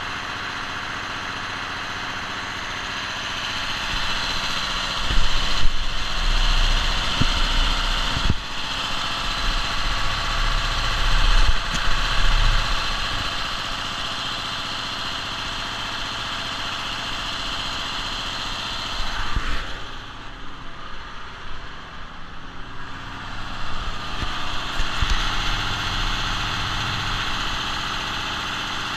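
International DT360 inline-six turbo diesel engine running on test, mostly at a steady idle. It grows louder for several seconds twice, with a quieter dip between, showing that the used engine runs.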